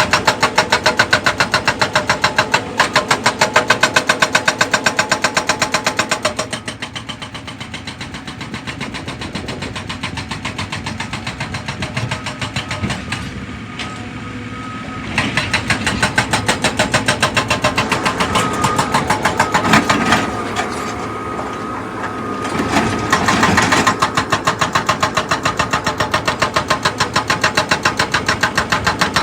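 Excavator's diesel engine running with a rapid, even pulsing beat. It quietens for several seconds about a quarter of the way in, then picks up again, with a couple of louder surges near the end.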